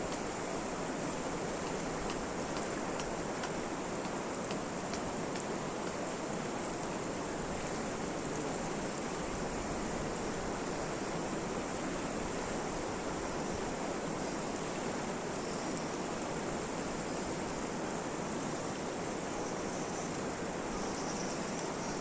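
Steady, unbroken rushing of water, even in level throughout, with a few faint ticks near the start.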